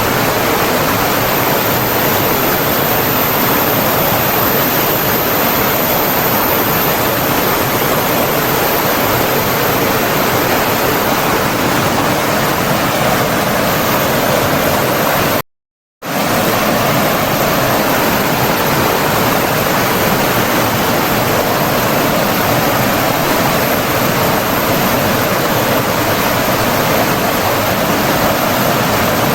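Steady, even rush of flowing water from a stream or waterfall. It cuts out completely for about half a second midway, then resumes unchanged.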